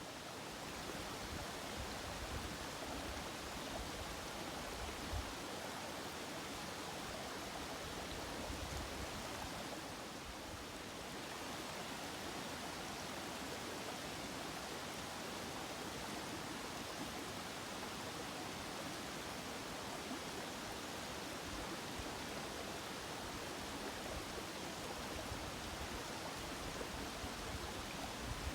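Mountain stream rushing steadily over a rocky riverbed, with occasional low rumbles.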